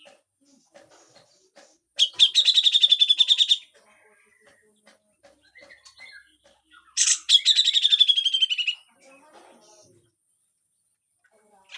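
Cucak jenggot (brown-cheeked bulbul) giving two harsh, rattling chatter calls, each a rapid run of rasping notes lasting about a second and a half, about two seconds in and again about seven seconds in.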